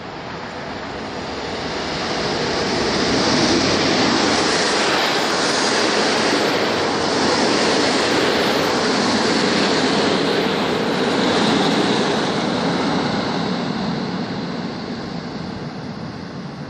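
An EP07 electric locomotive and its passenger coaches passing close along the platform, with an even rolling of wheels on rails that builds as the train arrives, holds while the coaches go by, then fades as the last coach draws away.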